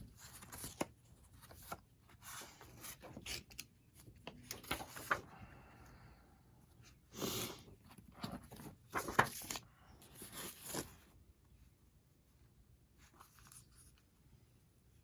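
Book being handled, its cover torn away from the text block with paper and board rustling and ripping in short bursts, with a few sharp clicks. It stops about eleven seconds in.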